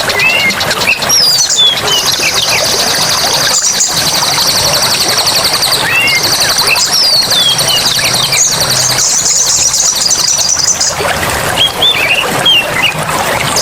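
Forest ambience: birds give short whistled calls and chirps over a steady rush of running water. A dense, high buzzing chorus joins about two seconds in, breaks briefly near the middle and stops a couple of seconds before the end.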